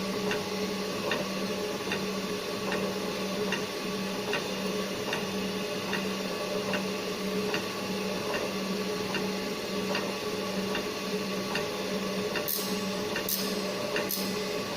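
Automatic circular saw blade grinder running: a steady motor hum with a click on each tooth-indexing stroke, a little more than one a second. Near the end the grinding wheel begins touching the teeth, adding a short hiss to each stroke; the wheel is still cutting too shallow.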